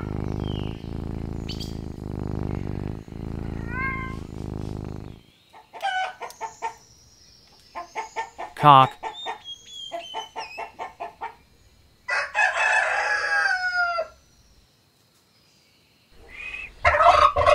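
A domestic cat purring steadily for the first five seconds, with two short rising meows. Then a rooster clucks in quick short calls, and about twelve seconds in gives one long crow of about two seconds. Near the end a turkey starts gobbling.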